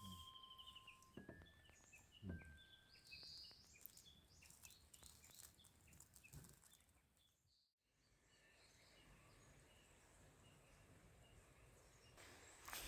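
Faint birds chirping, short high calls repeating over a quiet outdoor background. It breaks off suddenly after about seven and a half seconds and gives way to a faint steady hiss.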